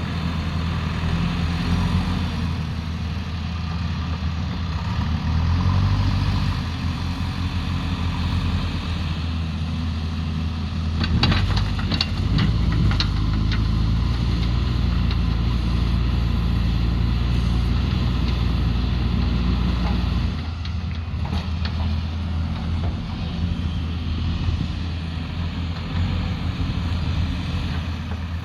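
Diesel engine of heavy earthmoving machinery running steadily as the machines work loose soil. About eleven seconds in comes a short run of knocks and clanks, with a few more later.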